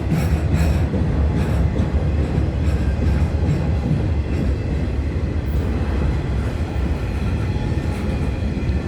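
Freight train cars rolling past: a steady low rumble of wheels on rail, with a few clicks from the rail joints in the first second.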